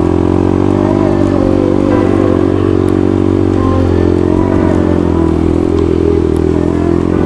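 Motorcycle engine running at a steady pitch while riding, with small rises and dips in engine speed.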